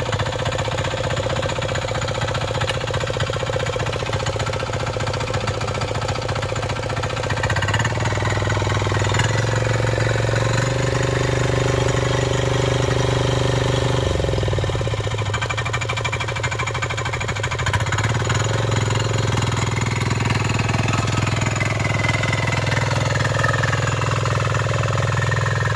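Kisankraft KK-IC-250D power weeder's single-cylinder 247 cc diesel engine running with a knocking clatter, its note rising and falling a few times as the engine speed changes.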